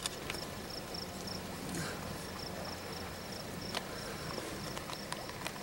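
An insect chirping in short, even, high-pitched pulses, about three a second. It stops about a second and a half in and picks up again near the end. A sharp click comes at the start, with a few lighter clicks later.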